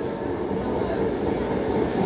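Local train running into the station: a steady noise of wheels on rails that grows slowly louder as it approaches.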